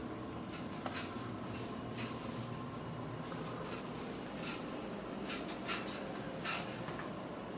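Scattered short scrapes and taps over a steady hum and a faint high tone, with the clearest strokes in the second half.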